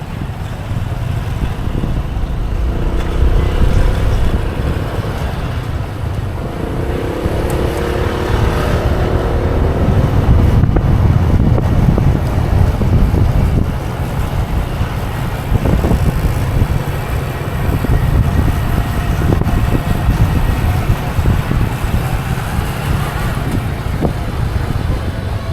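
Motorbike riding along a road: wind buffeting the microphone over a steady low rumble of engine and road noise. An engine note comes through clearly twice in the first ten seconds.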